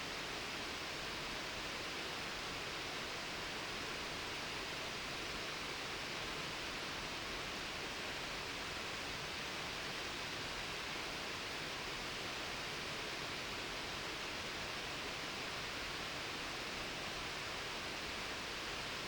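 Mountain stream water rushing steadily over rocks, an even hiss-like wash with no pauses.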